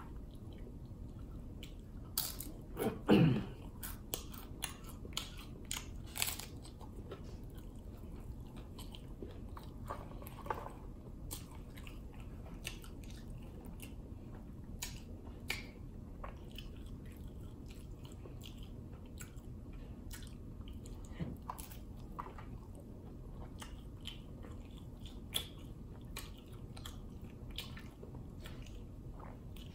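Close-up crunching and chewing of a Taco Bell Doritos Locos taco's crisp nacho-cheese shell, with crisp crunches densest in the first several seconds and thinning to occasional ones. A brief low hum about three seconds in is the loudest moment.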